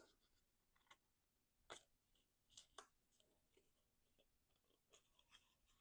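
Near silence, with a few faint, short rustles and taps of cardstock being handled and folded.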